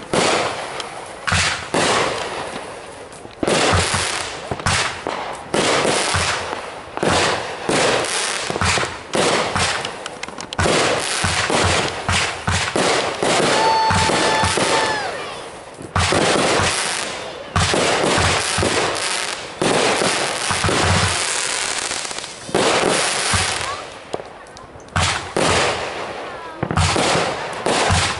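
Consumer aerial fireworks firing and bursting in rapid succession: many sharp bangs with crackling between them, and a brief steady tone about halfway through.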